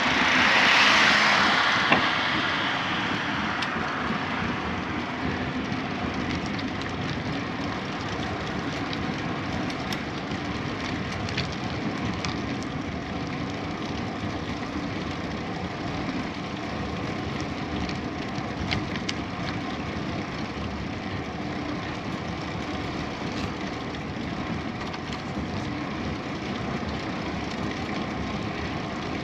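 Steady rushing of wind and tyre noise while riding a bicycle along a road. A louder whoosh swells and fades over the first few seconds, with a single sharp tick near two seconds in.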